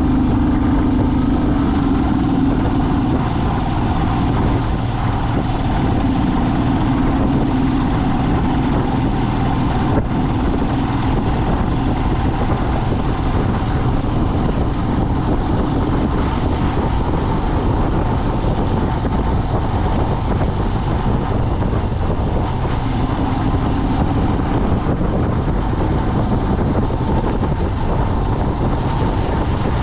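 Steady engine and road noise of a vehicle being driven, with a low engine hum that comes and goes.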